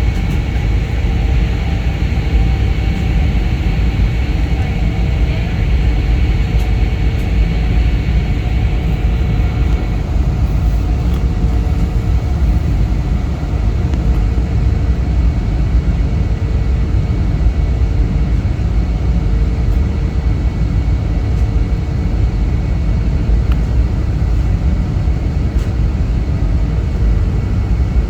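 Airliner cabin noise in flight: a steady low rumble of engines and airflow with faint steady tones above it. The higher hiss drops off about ten seconds in.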